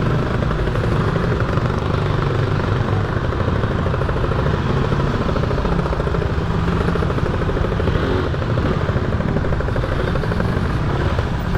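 Motorcycle engine running steadily while riding, its low engine note under a steady rushing noise of wind and road.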